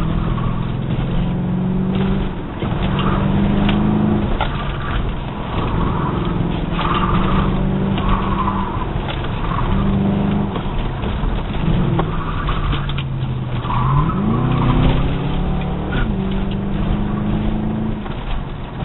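1997 Ford Thunderbird's engine heard from inside the cabin on an autocross run, revs rising and falling between corners, with one long climb in revs about fourteen seconds in. Tires squeal briefly in several corners.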